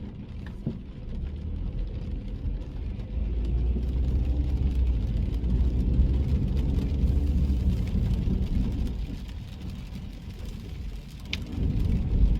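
Car driving in the rain, heard from inside the cabin: a low rumble of engine and tyres that swells in the middle and eases off, with faint ticks of rain and a brief high chirp near the end.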